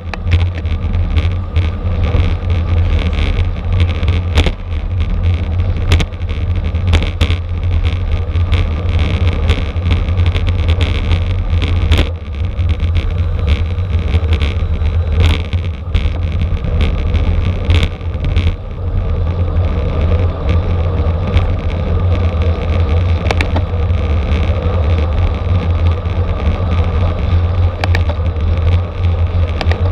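Steady wind rumble on the microphone of a camera riding on a racing bicycle at speed, with scattered sharp clicks and knocks from the bike and road.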